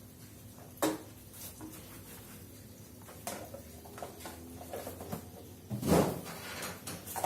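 Scattered knocks and clatter of groceries and kitchen containers being handled and put away, with a louder clatter about six seconds in, over a faint steady hum.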